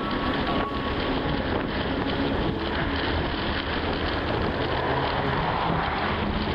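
Car on the move: a steady engine note under road and wind noise, with wind buffeting the microphone.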